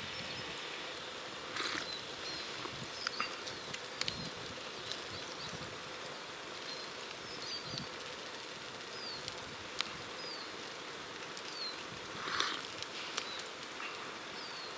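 Small songbirds calling in the woods: short, high, downward-sliding chirps repeated every second or two. Under them is a steady background hiss, with a few sharp clicks scattered through.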